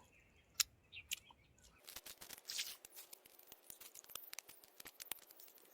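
Faint, irregular crackling with many small clicks, starting after a single sharper click.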